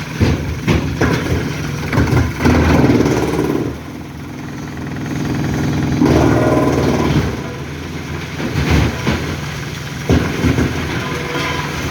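Truck engine running, growing louder twice, with scattered knocks and clunks.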